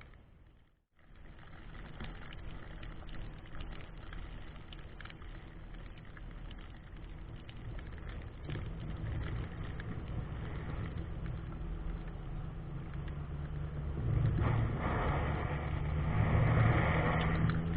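GMC 3500 plow truck's engine running, heard from inside the cab, after a brief dropout about a second in. It gets louder about 14 seconds in, as if under more throttle.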